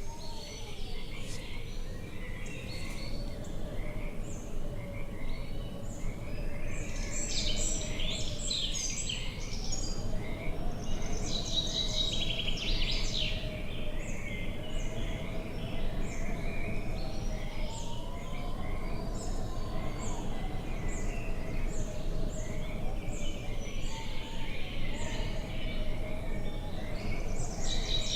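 Many small birds chirping and trilling, in busy bursts about seven and twelve seconds in, over a low steady wind rumble, with a faint wavering hum underneath.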